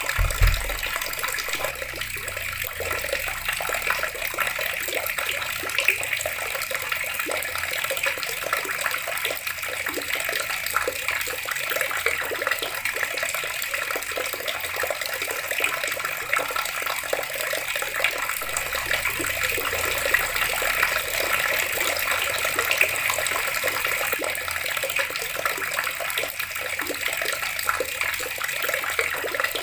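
Water running steadily from a tap, splashing continuously into a basin.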